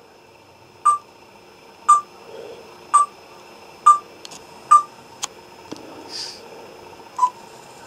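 Pet parrot calling: six short, sharp chirps, repeated about once a second with a gap near the end, and a few faint clicks between them.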